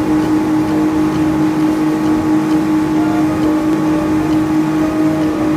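A steady motor drone with one constant humming pitch, over a low rumbling wash.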